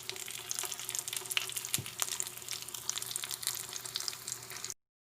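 Chicken frying in a hot pan, sizzling with many sharp crackles and pops. The sound cuts off abruptly near the end.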